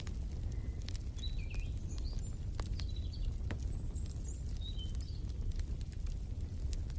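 Wood fire in a fireplace crackling, with scattered sharp pops over a steady low rumble. Small birds chirp in short high notes through the first part.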